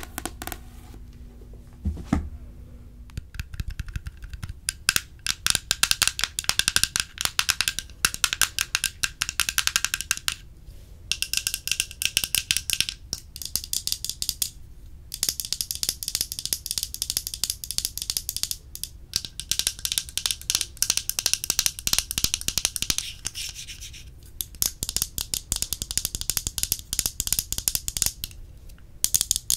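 Close-miked ASMR trigger sounds: dense runs of rapid, crisp clicks and crackles lasting several seconds each, broken by short pauses.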